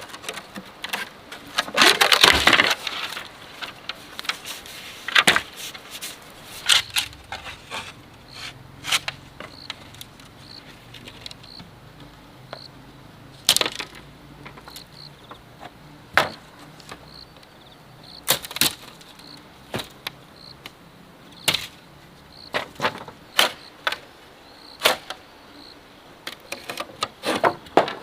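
Bamboo being worked by hand: irregular sharp knocks and cracks, with a longer rustling, crackling stretch about two seconds in.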